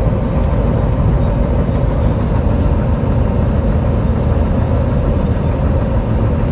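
A car driving at a steady speed: continuous engine and road rumble.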